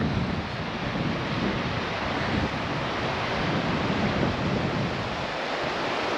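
Wind blowing over the microphone: a steady rushing noise with irregular low rumbles from the gusts.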